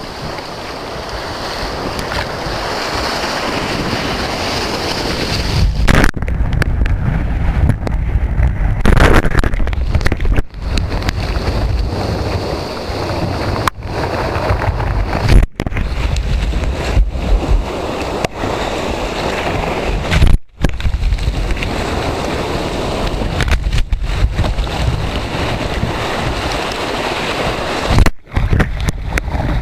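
Breaking surf and rushing water with heavy wind buffeting on the microphone, loud and uneven. The sound cuts out sharply for a split second several times.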